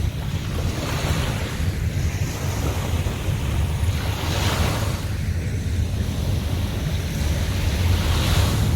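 Sea waves breaking and washing up the beach, swelling into a hiss about every three to four seconds. Under it runs a heavy low rumble of wind on the microphone.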